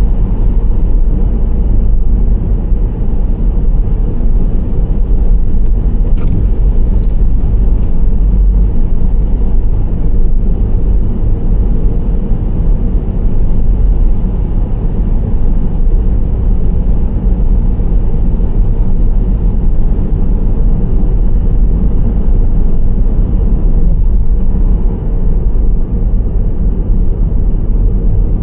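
Nissan Serena C25 minivan driving along, a steady low rumble of engine and tyre-on-road noise. Three short ticks come about six to eight seconds in.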